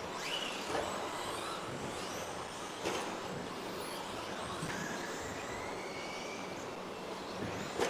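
Several electric RC stadium trucks with 13.5-turn brushless motors racing, their motors whining and rising and falling in pitch as they accelerate and pass. Three short knocks stand out, one about a second in, one near three seconds and one at the very end.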